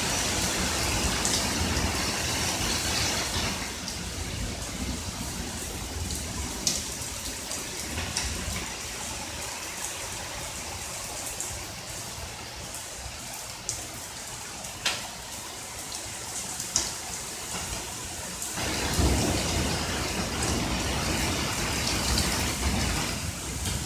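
Steady rain in a thunderstorm, with low thunder rumbling through the first few seconds and again, louder, near the end, and a few sharp drip ticks in between.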